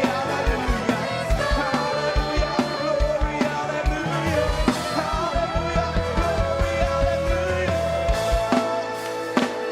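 A choir singing with a live band: drum kit with a steady kick-drum beat, guitar and bass.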